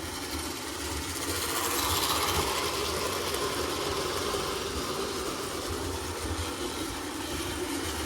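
Lionel 1666 toy steam locomotive running on its track, its electric motor whirring and wheels clattering steadily; the sound grows a little louder about two seconds in.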